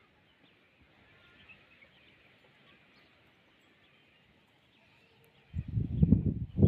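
Birds chirping faintly in the background. Near the end a sudden loud, low rumbling burst cuts in over them.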